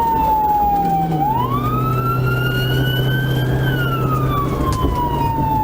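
Police car siren in a slow wail: its pitch falls, climbs back up from about a second in, then falls again, over the steady hum of the patrol car's engine and road noise.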